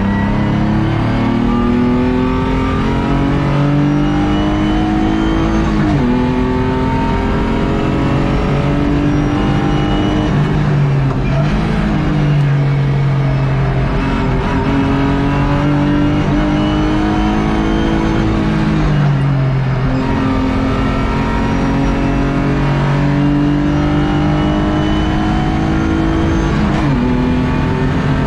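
BMW E36 race car's engine heard from inside the cabin, pulling hard at speed: its pitch climbs steadily under acceleration and falls back sharply about four times, at the gear changes.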